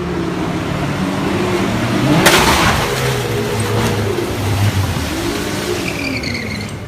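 Car engine running, its pitch rising and falling as it revs, with one loud crash-like bang about two and a half seconds in.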